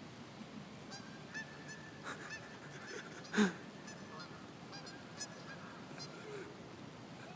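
Geese honking, many short calls scattered throughout, over a steady hiss of pouring rain. One louder, sharper sound stands out about three and a half seconds in.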